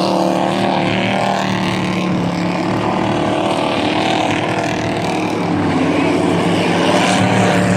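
Several dirt-track race trucks' engines running together at racing speed, a steady loud drone whose pitch wavers slightly as they work around the oval.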